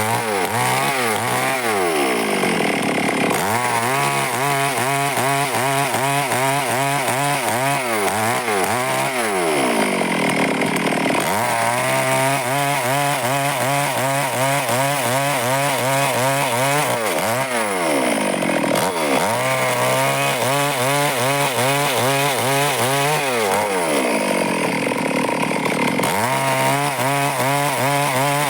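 Stihl chainsaw cutting wood at high revs, its note wavering under load. About four times the revs fall away and then climb back up as the cut resumes.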